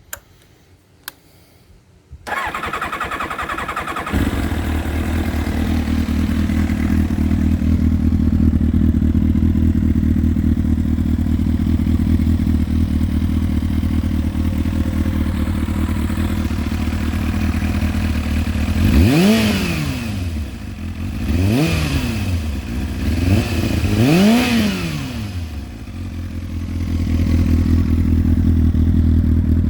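1996 Kawasaki Ninja ZX-7R's carbureted inline-four engine, with a full Akrapovic stainless header and titanium exhaust, is cranked on the starter for about two seconds. It catches and settles into a steady idle. About two thirds of the way through, it is blipped four times in quick succession, each rev rising and falling, then it drops back to idle.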